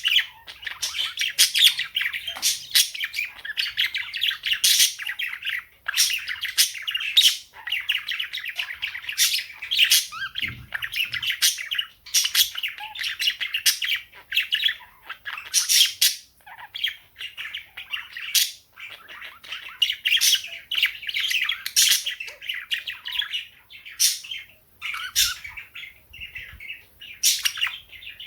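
Pet cockatiel and budgerigars chirping and chattering together, with steady warbling broken by frequent short, shrill squawks and a few brief pauses.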